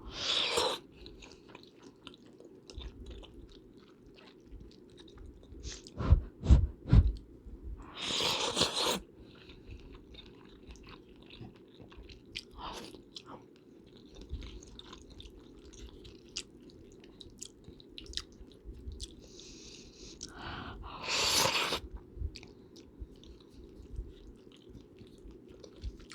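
Close-miked chewing and biting of food, with small wet mouth clicks. About six seconds in come four heavy low thumps, like bumps against the microphone, and twice a louder rushing noise lasts about a second.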